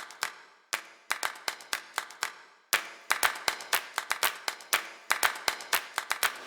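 A rapid, uneven series of sharp clicks or taps, about three to five a second, with two brief breaks where it cuts off suddenly.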